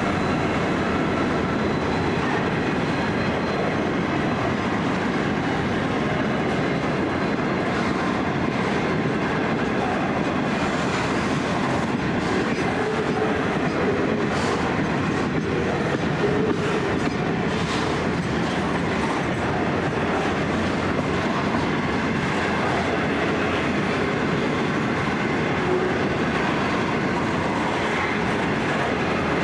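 Freight train of empty grain hopper wagons rolling past at steady speed: a continuous rumble of steel wheels on rail, with a few sharper clicks from the wheels crossing rail joints.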